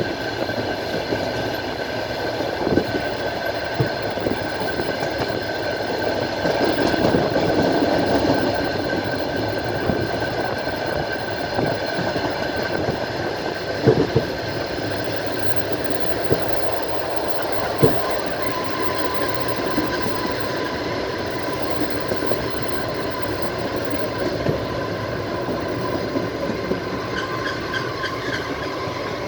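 Train wheels running on rails, heard from a carriage window: a steady rumble with a few sharp knocks of wheels over rail joints. A thin high whine runs throughout, and a second, lower whine joins about two-thirds of the way through.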